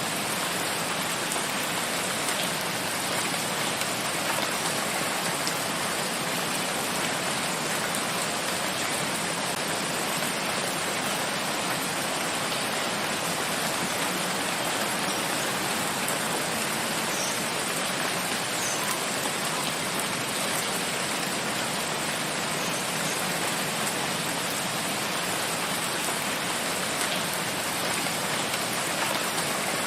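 Steady rain falling in a forest, an even hiss of drops with no change in strength.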